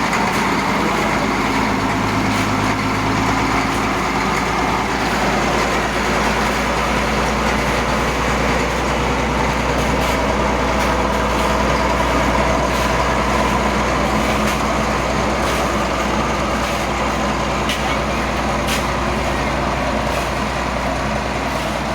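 Heavy diesel vehicle engine running steadily, with a constant low hum and a few faint clicks over it.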